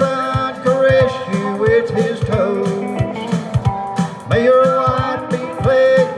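Country music: a band with guitar and a steady beat, with singing over it.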